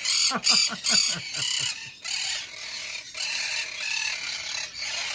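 Quaker parrots calling: a quick run of short calls falling in pitch, then repeated harsh, raspy chatter.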